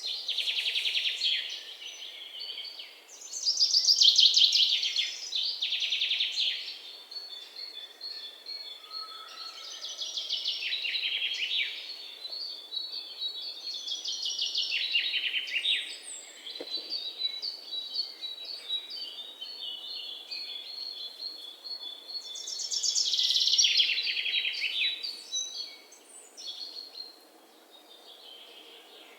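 Songbirds chirping and trilling: several loud bursts of fast, rapid-fire chirps a few seconds each, with a thinner run of high repeated notes between them.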